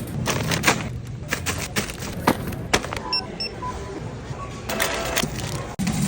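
Store checkout: goods knocking and rustling as they are handled, with several short electronic scanner beeps about three to four and a half seconds in.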